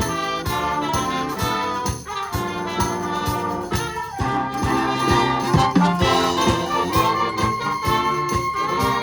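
Youth wind band playing live, with a steady percussion beat under the brass and woodwinds.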